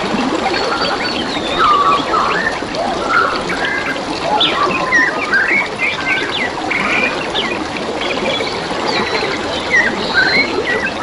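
Several birds chirping and whistling in quick, varied phrases over the steady sound of trickling running water.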